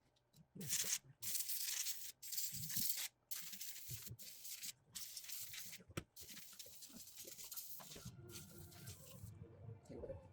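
Several short bursts of hissing spray, each half a second to a second and a half long with brief pauses between them, as sand and dirt are cleaned off the RC truck's parts. Fainter handling noise follows near the end.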